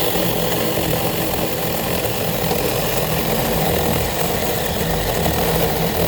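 A small mini chainsaw running steadily as its chain cuts through a log.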